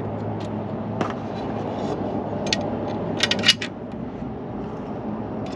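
Small metal clinks and scrapes of a bolt and washers being handled and fitted to steel strut channel, with a cluster of sharp clinks a little past the middle, over a steady low hum.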